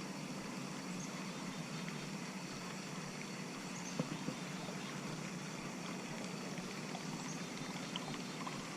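Water trickling and lapping around a kayak, a steady hiss with a couple of faint clicks about four seconds in.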